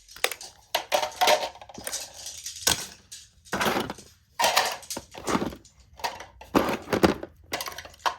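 Small hard objects being handled: a string of clacks, knocks and short rattles, several to the second, with a buzzy rattle about a second in.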